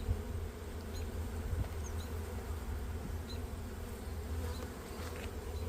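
Honeybees buzzing steadily around an open hive, many wingbeats blending into one continuous hum.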